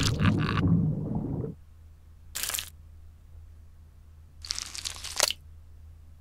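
Two short crunchy, crackling sound effects about two seconds apart, the second one longer. They follow a louder sound that dies away in the first second and a half.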